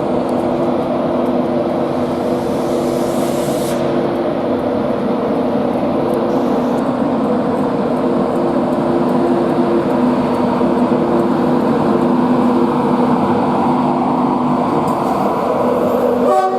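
Locomotive standing at the platform with its equipment running: a loud, steady hum with several held tones.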